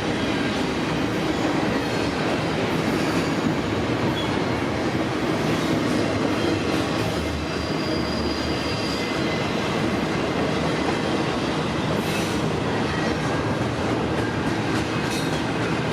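Freight train cars rolling past close by: a steady rumble and rattle of steel wheels on rail. A brief thin wheel squeal comes about halfway through, and a couple of sharp clanks near the end.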